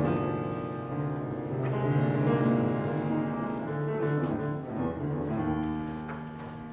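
Live piano music with a low bass part: a loud chord struck at the start, then held chords and melody notes that ring on, growing softer near the end.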